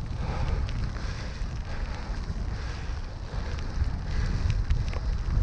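Wind buffeting an action camera's microphone while cycling, a heavy uneven rumble, with a steady hiss from the wet road and rain over it and a few faint ticks.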